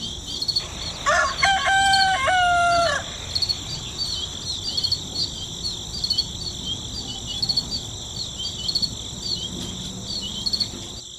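A rooster crows once, about a second in, for some two seconds, over a steady high-pitched drone of crickets with short repeated chirps.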